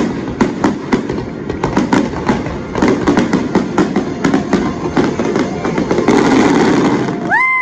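Fireworks finale barrage: a rapid run of sharp bangs and crackling bursts, several a second, thickening into a continuous rumbling roll near the end. Right at the end a spectator's high whoop rises and starts to fall.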